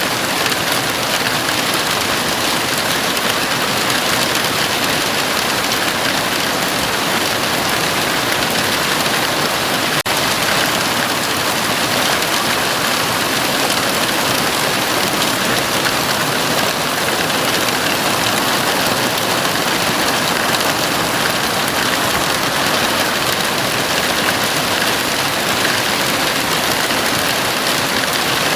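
Heavy rain falling steadily on a house roof: a dense, even hiss with no single drops standing out. The sound drops out for a split second about ten seconds in.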